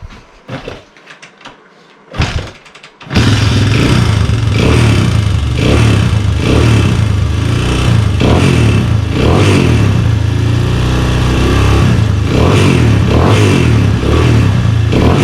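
Honda ATC three-wheeler's single-cylinder engine, just fitted with a new top end, catches and starts about three seconds in after a couple of short attempts. It then runs with the throttle blipped up and down again and again.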